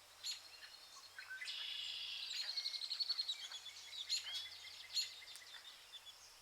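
Birdsong: several birds chirping and calling, with a fast trill running from about one and a half to three and a half seconds in.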